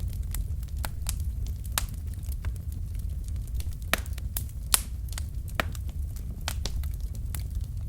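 Wood fire in a fireplace crackling, with irregular sharp pops from the burning logs, two louder ones a little under a second apart near the middle, over a steady low rumble of the flames.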